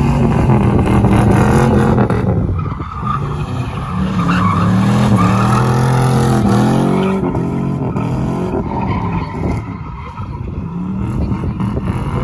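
Vehicle engine revving hard, its pitch rising and falling several times.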